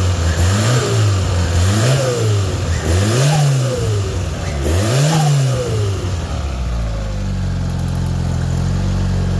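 Toyota Starlet turbo engine revved in four short blips, falling back between them, then settling to a steady idle about seven seconds in. It is cold and a bit hesitant, but the repaired exhaust manifold is no longer blowing.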